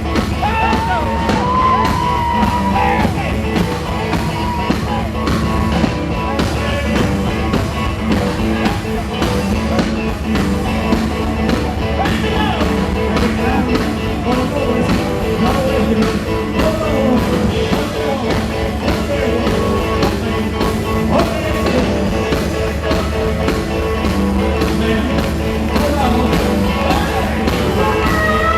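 Live rock and roll band playing, with electric guitar, drums and bass under a singing voice.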